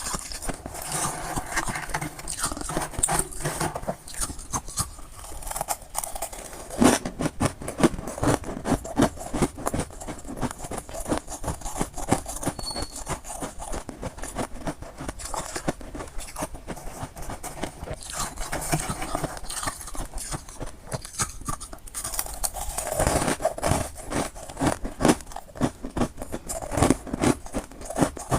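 Someone chewing freezer frost (soft white ice) close to the microphone: a dense, continuous run of crisp crunches and crackles.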